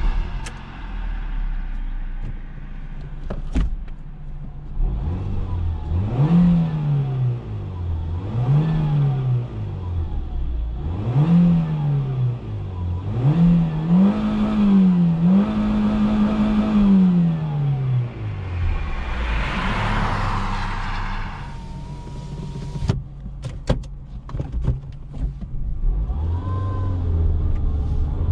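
Ford Fusion's 1.4-litre 16-valve inline-four petrol engine idling, then blipped five times, the last rev held for a couple of seconds before it drops back to idle. A few sharp clicks follow, and near the end the engine note rises again as the car pulls away.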